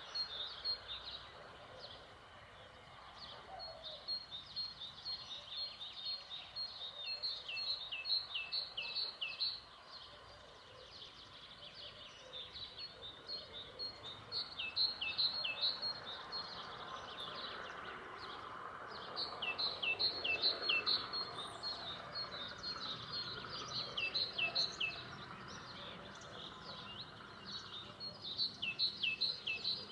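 Songbirds singing: rapid runs of high chirping notes in phrases several seconds long, with short pauses between them, over a faint background rush.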